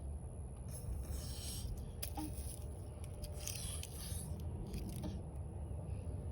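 Intermittent rustling and scraping in grass and dry leaves, several short scratchy bursts over a steady low rumble.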